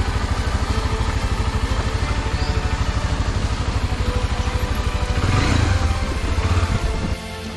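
Single-cylinder dual-sport motorcycle engine running on a dirt trail with a fast, even pulse, getting louder about five seconds in as it speeds up, then cutting off suddenly near the end.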